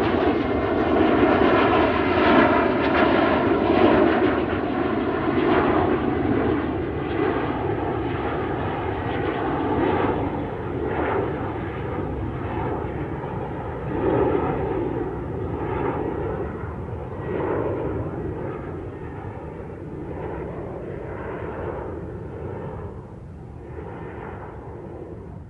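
Airliner engine and airflow noise, a steady dense noise with a faint engine hum in it, slowly getting quieter and duller.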